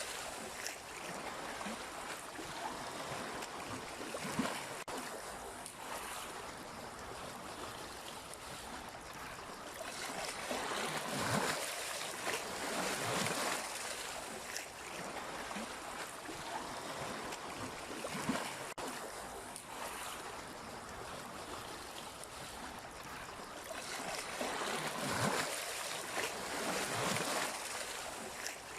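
Sea waves washing in, a continuous rush of water that swells louder twice as bigger waves come in.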